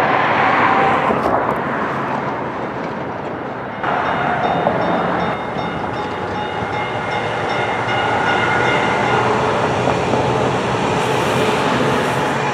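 A train passing close by, its cars rolling past with a continuous rumble. Thin high-pitched tones ring over it for a few seconds in the middle.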